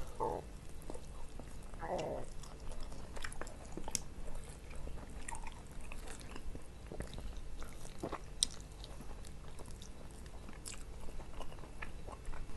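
Close-miked eating: biting into and chewing grilled spiced chicken (ayam taliwang) by hand, with scattered short wet clicks and smacks.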